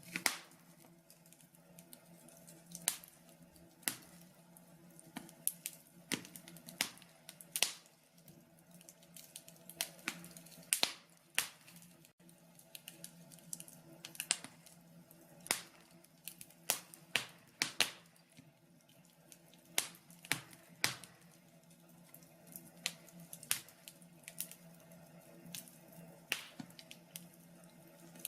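Wood burning in a log burner, crackling with irregular sharp pops and snaps, some much louder than others, over a steady low hum.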